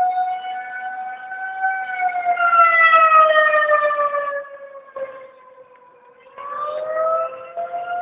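Outdoor tornado warning siren wailing: a pitched tone that swells and slowly falls in pitch, fades briefly about five seconds in, then rises again. A lower steady tone runs beneath it.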